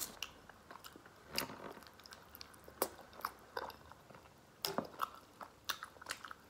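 A person chewing and smacking on food with the mouth open: irregular wet smacks and clicks, sometimes a few close together, with pauses between.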